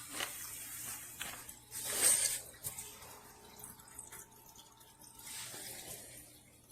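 Wooden toy train cars rolled across a surface: a faint rolling rattle with a few light wooden knocks, the loudest about two seconds in.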